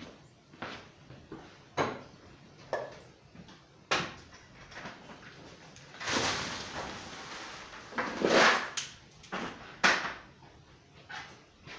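Coal being shovelled onto a blacksmith's coal forge: scattered knocks, with a long gritty scrape about six seconds in and a louder one around eight seconds.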